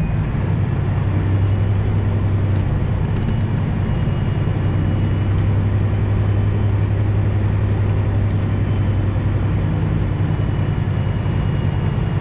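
Detroit Diesel 12.7 engine of a Freightliner Classic XL semi truck running steadily under way, a constant low drone with a faint steady high whine over it.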